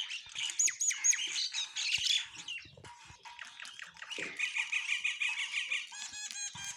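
A flock of sparrows chirping, many short calls overlapping in a dense, continuous chatter.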